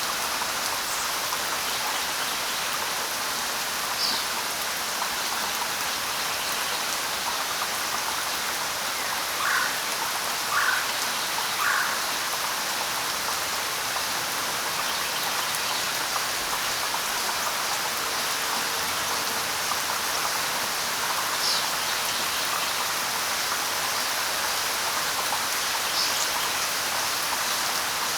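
Steady light rain pattering on leaves and ground, with a few brief bird calls on top: three lower calls about a second apart near the middle, and a few short high chirps.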